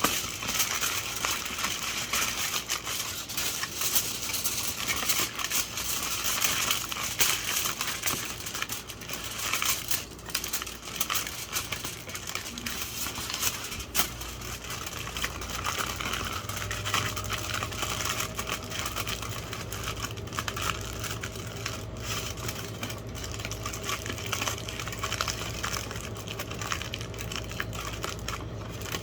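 Aluminium foil crinkling and crackling as it is folded and pressed by hand into a small boat, busier in the first half.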